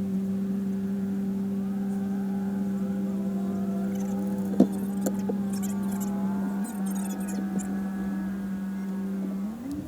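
Jeep engine running at a steady pitch, with one sharp knock about halfway through and a short rise in pitch near the end.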